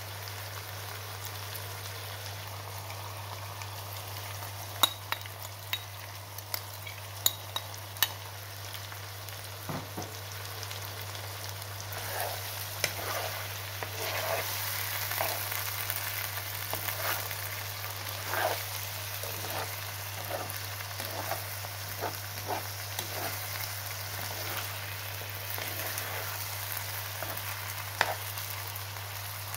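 Lamb liver and chopped onion sizzling in oil in a nonstick frying pan, with a steady low hum underneath and a few sharp clicks in the first third. From a little before halfway, a spatula stirs and scrapes through the pieces in repeated short strokes.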